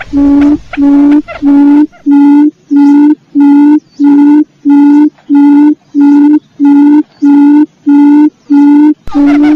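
Quail lure call: a short, steady, low hooting note repeated about twice a second in an even rhythm. For the first two seconds and again near the end, a second, more varied call overlaps it.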